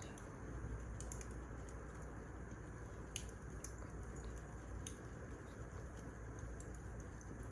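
Wood fire crackling: a steady low hiss with irregular sharp pops and snaps, the sharpest about three seconds in.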